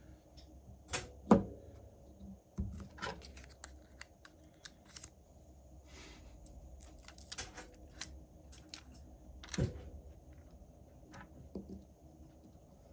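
Scattered light clicks and taps of small parts being handled with hand tools on a repair bench, with a louder tap about a second in and another near ten seconds, over a faint steady high whine.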